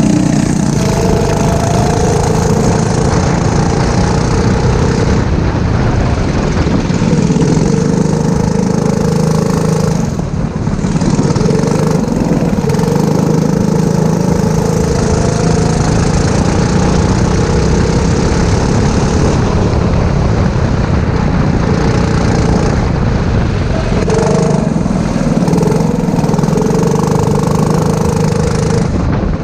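Four-stroke kart engine running at racing speed, its pitch rising and falling as the throttle is opened and closed through the corners, with a brief lift about ten seconds in.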